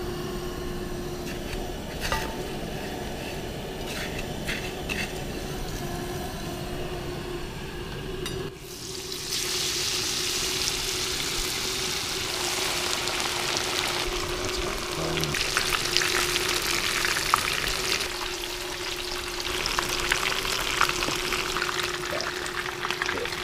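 Battered, panko-coated lingcod pieces frying in a pan of hot oil, a dense crackling sizzle that starts suddenly about eight seconds in. Before that there is only a steady low hum with a few light clicks.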